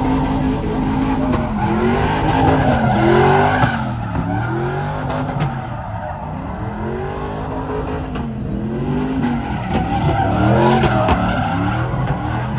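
Truck engine revving up and down over and over, with tyres squealing and skidding, as in donuts or burnouts.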